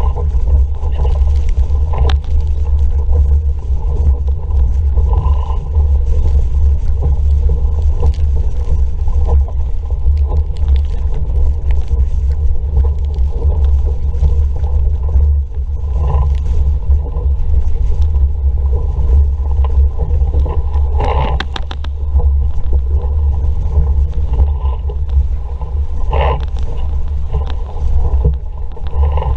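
Strong wind buffeting the microphone as a steady low rumble, over water rushing past an RS Vareo sailing dinghy, with a few brief splashes or knocks.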